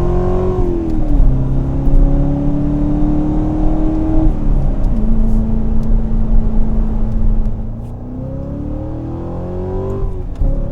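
Chevrolet Corvette C7 Stingray's 6.2-litre V8 through a Borla valved rear exhaust, accelerating through the gears: the pitch climbs and drops at upshifts about a second in and again about four seconds in. It then holds a steadier, slightly quieter note before climbing once more near the end.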